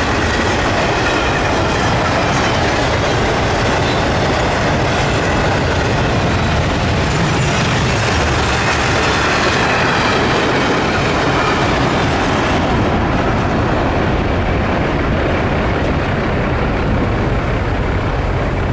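A train's railroad cars rolling past close by, their steel wheels running loudly and steadily on the rails. The hiss in the top end drops away about two-thirds of the way through.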